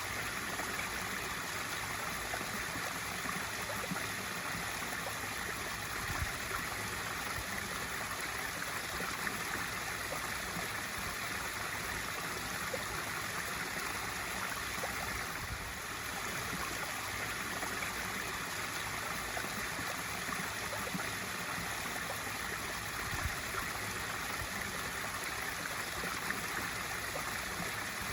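Water from a swimming pool's waterfall feature splashing steadily into the pool, an even rushing and trickling sound.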